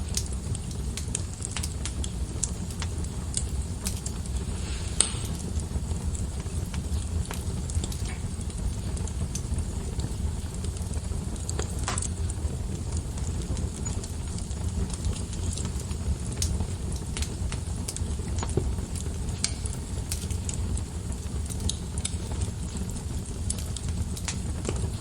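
Wood fire burning in a fireplace: a steady low rumble with frequent crackles and pops, two louder pops about five and twelve seconds in.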